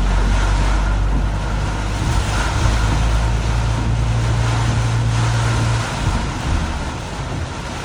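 A car driving in heavy rain: a steady hiss of rain and tyre spray over a low road and engine drone, which eases about six seconds in.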